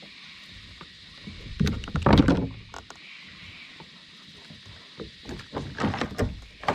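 Knocks and thumps against a kayak's hull as things are handled in it, in two clusters: a loud one about one and a half to two and a half seconds in, and another from about five seconds in.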